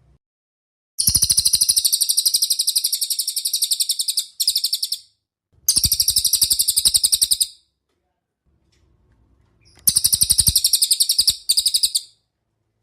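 A bird calls in three loud, rapid rattling trills of about two to three seconds each, separated by short pauses. The first and last trills each break briefly near their ends.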